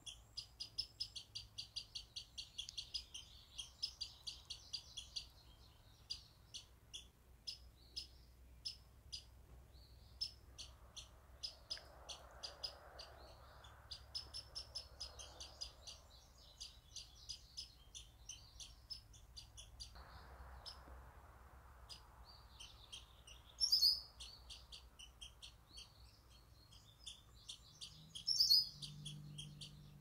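Backyard songbirds chirping: a fast, steady run of short high chips with overlapping song, and two louder calls, one about three-quarters of the way through and one near the end.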